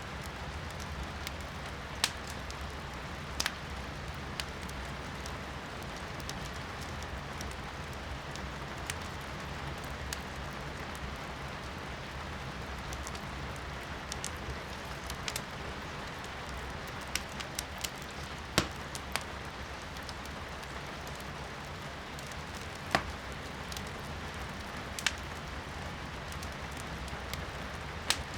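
Firewood burning in a fireplace, crackling with sharp, irregular pops every second or few, over a steady hiss of rain heard from indoors.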